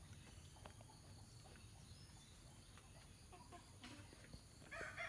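Quiet rural background with faint scattered ticks, then a rooster begins to crow near the end.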